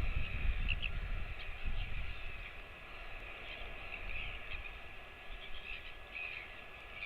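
Birds chirping in short calls over a steady background hiss, with a low rumble in the first two seconds.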